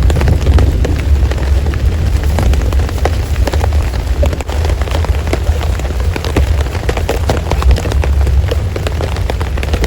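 Heavy rain with many sharp drop hits over a constant deep rumble.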